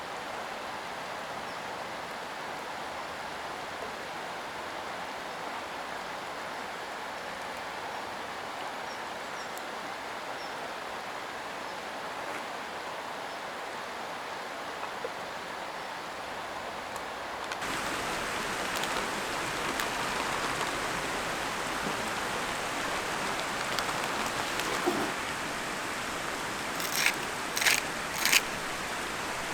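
Mountain stream water running steadily. It becomes louder and fuller about two-thirds of the way through, and three short knocks come near the end.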